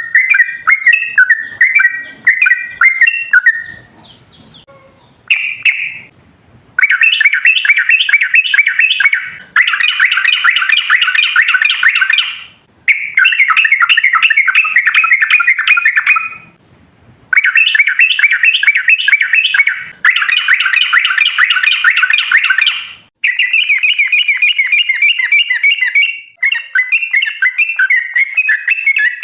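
Yellow-vented bulbul (trucukan) song: loud, rapid, bubbling chattering phrases of a few seconds each, repeated about nine times with short pauses between them.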